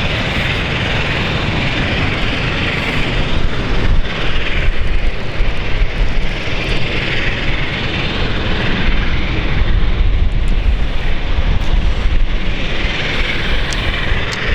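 Airliner engine noise, a loud hiss that swells and fades every few seconds, over a heavy low rumble of strong wind buffeting the microphone.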